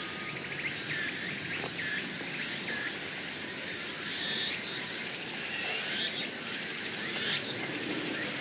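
Summer forest ambience: insects buzzing steadily, with short bird chirps repeating every second or so over a low background rush.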